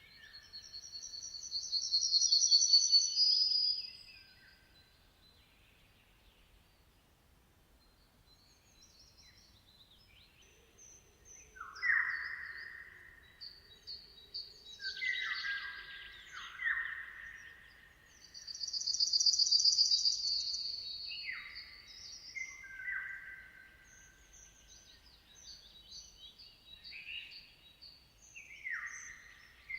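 Songbirds singing: a high, rapid trill about a second in and again around the middle, and from about twelve seconds on a run of lower, falling whistled phrases repeated every few seconds, with a quiet lull before them.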